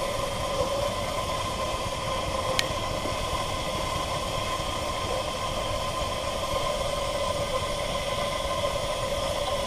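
3-inch gauge model Fowler steam traction engine running under steam: a steady hiss, with one small click about two and a half seconds in.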